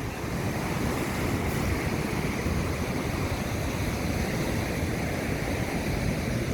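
Steady wash of ocean surf breaking on the shore, mixed with wind on the microphone.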